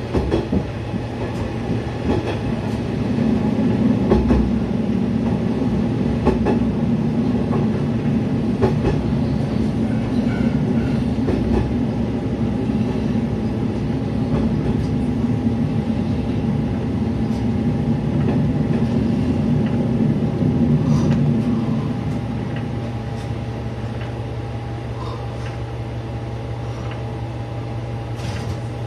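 Kumagawa Railway diesel railcar running along the line, heard from the cab: a steady low engine drone with scattered clacks of the wheels over rail joints. The engine note drops back about three-quarters of the way through as the railcar slows toward a station platform.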